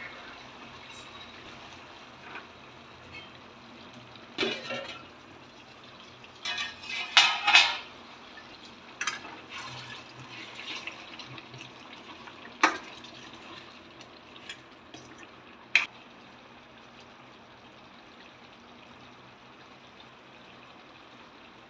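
Metal utensils clinking and scraping against a cooking pot, with a cluster of loud clatters about a third of the way in and a few single sharp clinks after, then only a faint steady hiss.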